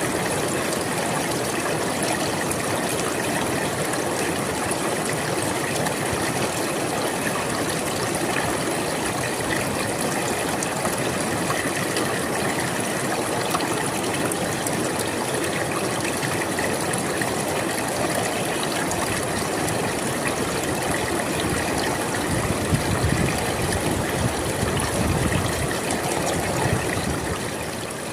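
River water flowing steadily, an even rush of water noise, with a deeper, louder surge of the flow a little over three-quarters of the way through.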